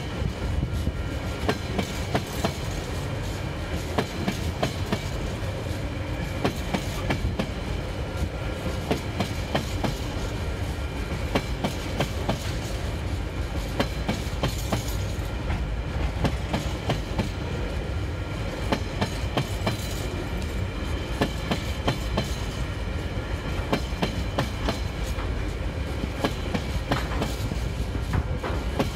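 Empty container wagons of a freight train rolling past, wheels clicking over the rail joints again and again over a constant low rumble.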